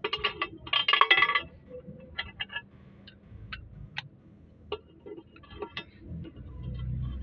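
Metal tools and parts clinking and knocking during gearbox assembly: a rapid cluster of clinks in the first second and a half, then scattered single clinks, with a low rumble building near the end.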